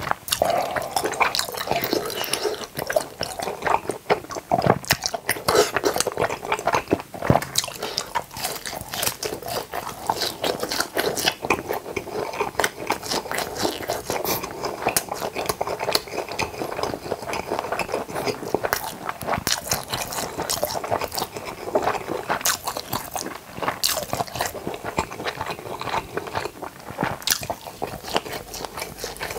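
Close-miked mouth sounds of a person chewing a mouthful of spicy tteokbokki, a steady run of wet, sticky chewing with many small clicks and crunches.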